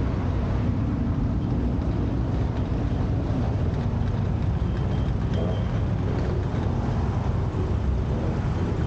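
Car engines idling with a steady low rumble, with traffic passing.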